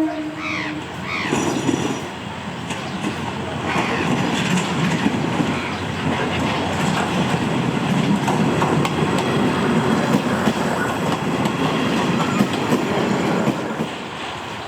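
A train horn's note ends within the first second, then a train runs past close by, its wheels clattering over the rail joints with a steady rumble that eases near the end.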